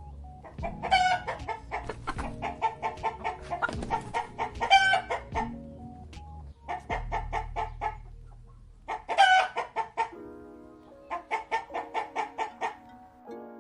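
Chickens clucking in runs of quick, short calls, about five bursts in a row, over faint background music.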